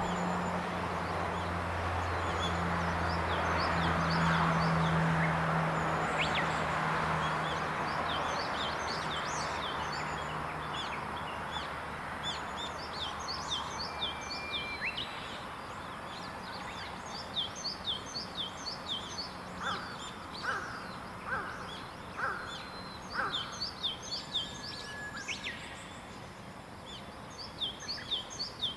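Wild birds singing in a morning chorus: many quick, high chirps and trills throughout, with a short series of five lower calls about two-thirds of the way in. A low engine drone fades away over the first half.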